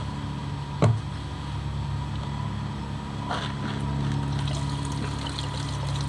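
Gasoline trickling from a gas can into a small engine's fuel tank, over a steady low hum. One sharp knock about a second in.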